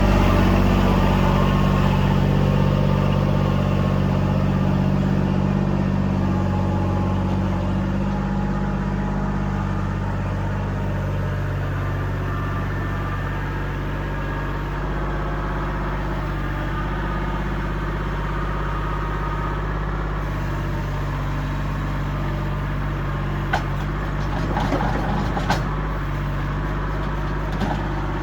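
Kubota L2501 tractor's diesel engine running steadily, easing down a little over the first ten seconds. A few sharp knocks come near the end.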